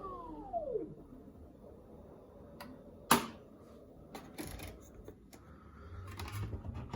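Beko WTK104121A washing machine at the end of a spin: its motor whine falls steeply in pitch and dies away within the first second as the drum slows. Then come a sharp click about three seconds in, a few soft knocks a second or so later, and a low hum building near the end.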